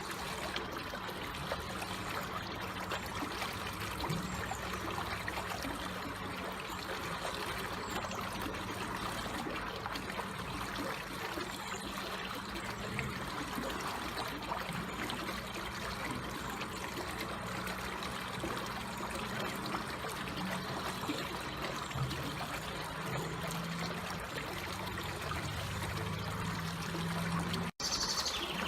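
Water trickling and flowing steadily, a continuous gentle rush. It breaks off for an instant near the end.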